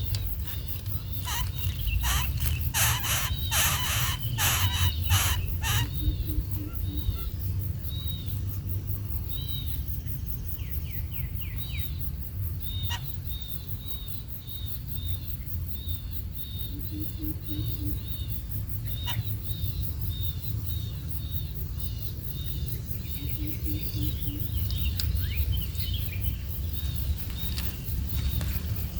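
A young bird cheeping: short high chirps repeated over and over, about two a second for long stretches. A cluster of scratchy clicks comes in the first few seconds, over a steady low rumble.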